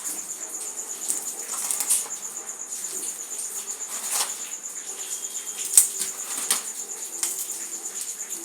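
Something dry being crumbled, with irregular crackles and scattered sharp snaps, the loudest a little before the six-second mark. An insect trills steadily with a fast, even pulse behind it.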